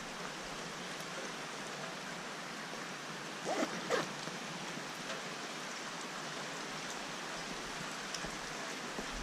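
Steady rain falling, an even hiss of noise. Two short squeaky, pitch-sliding sounds come about three and a half and four seconds in.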